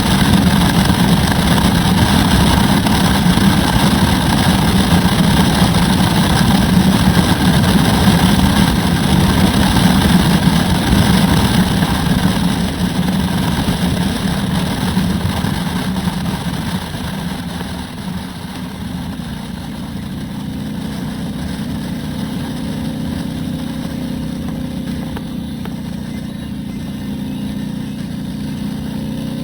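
Turbocharged Harley-Davidson Road Glide V-twin engine running under way, loud for the first half, then easing off a little over halfway through into a quieter, steady run.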